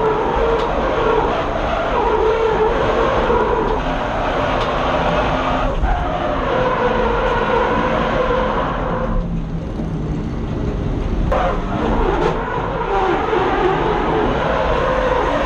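BMW M50B25 2.5-litre straight-six engine in a drift car, heard from inside the car, held at high revs with its pitch rising and falling. About nine seconds in the engine note dips and thins for a couple of seconds as the throttle comes off, then comes back on hard.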